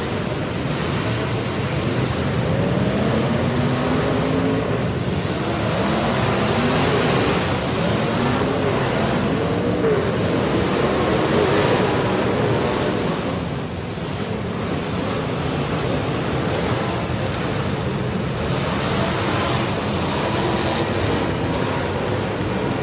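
Several demolition derby cars' engines being revved at once over a dense, loud roar. Their pitches keep rising and falling, overlapping one another.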